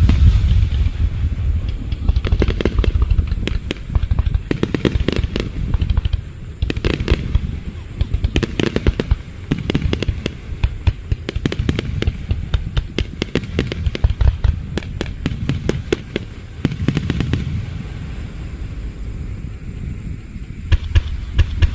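Aerial fireworks going off in quick succession: deep booms under a steady low rumble, with waves of rapid crackling bursts and a cluster of sharp bangs near the end.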